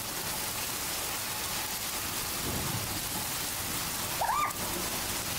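Steady rain falling. About four seconds in comes one short, high, rising squeak.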